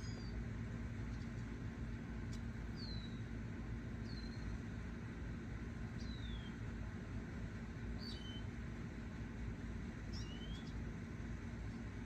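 Small songbirds giving short, high, downward-slurred chirps, one every second or two, over a steady low hum and rumble.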